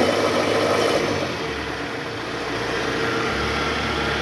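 Toyota Harrier engine running with the AC on and in reverse, a little louder in the first second as it is given throttle, with a growling ('ngorok') from the worn drive-belt tensioner, whose spring has gone weak and lets it shake.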